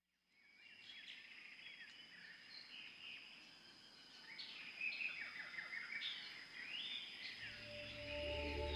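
Many birds chirping and trilling over a steady high-pitched tone, fading in at the start. Music with a low bass comes in near the end.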